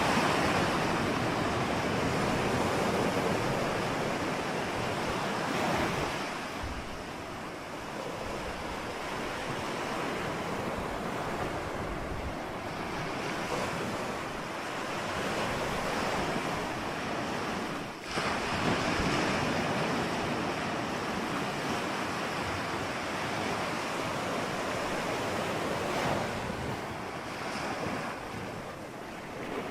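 Ocean waves breaking and washing ashore in a steady rush that swells and fades every several seconds. The sound dips briefly about eighteen seconds in.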